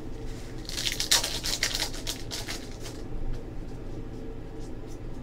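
Trading cards being handled and slid against one another, with a dense patch of scratchy rustling and snapping about a second in, then a few light clicks. A steady low hum runs underneath.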